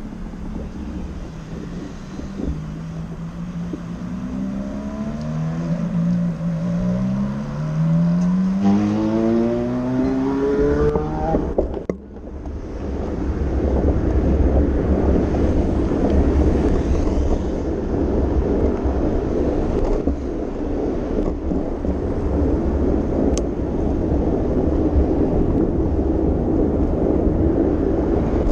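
A motor vehicle's engine accelerating, its pitch rising again and again as it shifts up through several gears. Then, after a brief sharp drop about twelve seconds in, steady rushing wind and road noise from riding on a bicycle.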